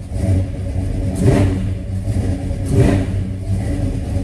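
A 1969 Oldsmobile Cutlass engine on a newly fitted MSD Atomic 2 throttle-body fuel injection system, idling and blipped twice with quick revs about a second and a half apart, falling back to idle between them. It is heard from inside the car's cabin, with crisp throttle response.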